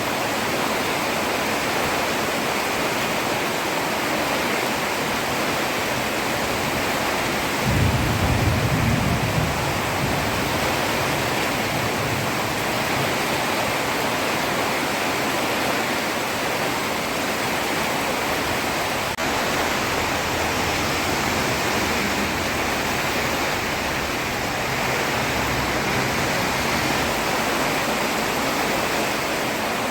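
Heavy rain falling on a road in a steady hiss. A brief low rumble rises suddenly about eight seconds in and lasts under two seconds.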